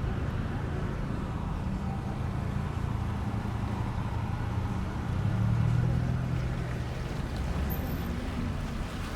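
A motor engine running with a steady low hum that swells louder about five seconds in, then eases back.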